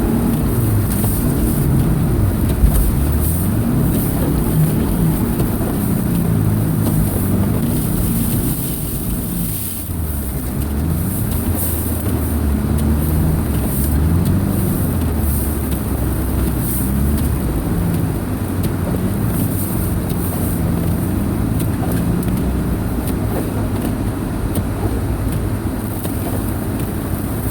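Subaru Impreza's EJ25 2.5-litre flat-four engine running under way over a steady rush of road noise, its pitch rising and falling again and again as the throttle is worked.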